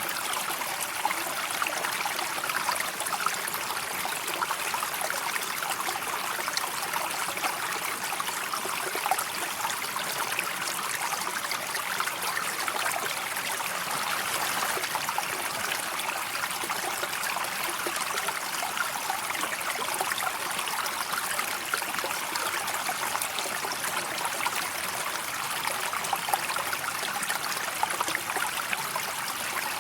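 River water flowing steadily: an even, continuous rush and trickle of moving water.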